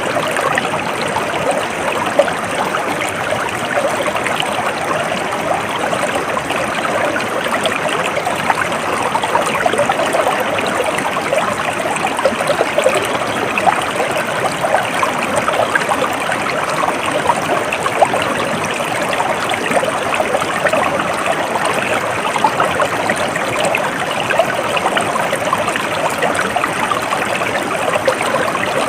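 A stream of water flowing and trickling steadily, a dense, even babble of small splashes.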